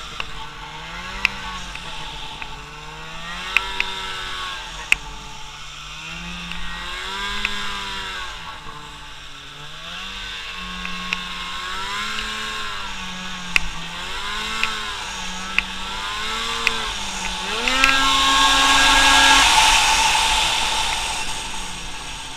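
Snowmobile engine revving up and down over and over, the pitch rising and falling, with sharp clicks now and then. About eighteen seconds in it runs loudest, held at a steady high pitch for a couple of seconds, then fades.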